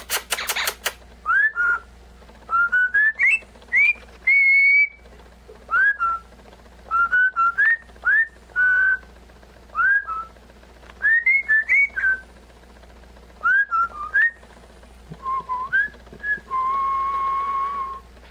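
Pet parrot whistling a tune in phrases of short upward-sliding notes, with one longer steady whistle near the end. A brief burst of rapid clicks at the very start.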